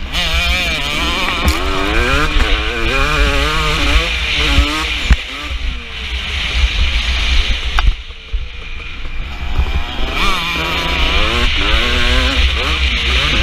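KTM 250 SX two-stroke motocross engine revving up and down as the bike is ridden hard, with wind buffeting the microphone. The throttle shuts off briefly about eight seconds in, then the engine pulls hard again.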